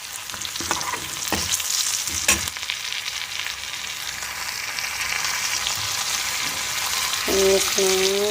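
Stinging nettle with garlic, onion and spices frying and sizzling in a pan as it is stirred, with a few sharp knocks of the spoon against the pan in the first couple of seconds. The sizzle grows louder toward the end.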